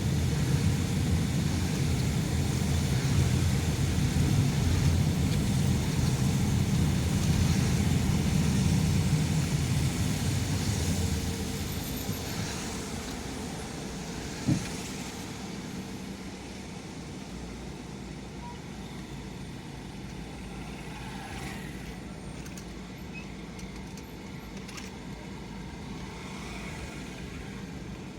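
Car on the road: a low engine and road rumble that fades about eleven seconds in to a quieter steady hum, with one short sharp blip about halfway through.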